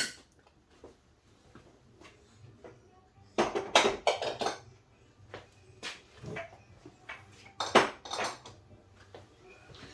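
Kitchenware clattering: a sharp knock at the start, then two clusters of clinks and rattles, about three and a half seconds and about eight seconds in, with a few lighter knocks between.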